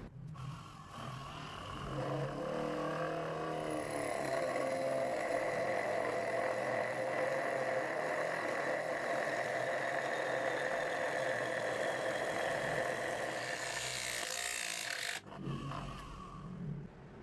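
A homemade drill press / drum sander running steadily under load, with wood scraping against the tool. It builds up over the first couple of seconds and cuts off abruptly near the end.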